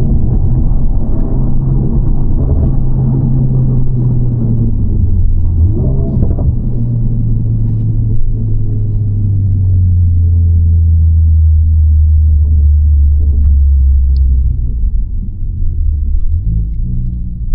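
Honda Civic FL5 Type R's turbocharged 2.0-litre four-cylinder heard from inside the cabin through an HKS Legamax exhaust with aftermarket downpipe: a loud, steady low exhaust drone under way. The engine note steps down in pitch about six seconds in and holds lower, then eases off near the end before rising again.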